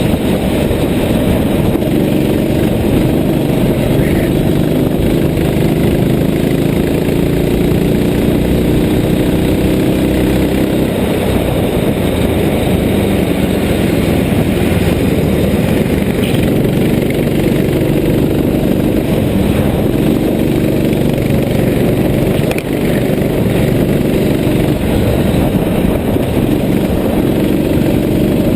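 Kart engine running hard, its pitch climbing steadily along the straights and dropping back in between, over a dense rushing noise.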